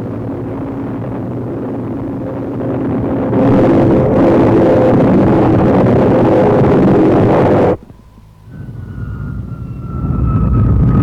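Jet aircraft engine noise: a steady roar that grows louder about three seconds in, then stops abruptly near eight seconds at a tape splice. After it comes a high jet whine that slowly falls in pitch and grows louder toward the end.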